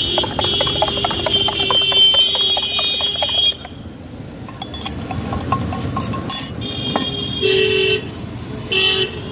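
Busy street traffic with vehicle horns honking: one horn held for about three and a half seconds over a rapid clatter, then quieter traffic noise and two short toots near the end.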